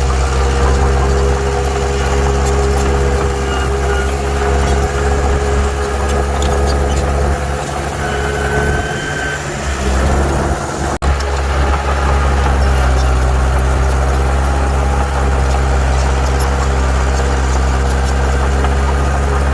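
Heavy diesel engine of earthmoving machinery running steadily, with a short dip in the low engine note a little under halfway through.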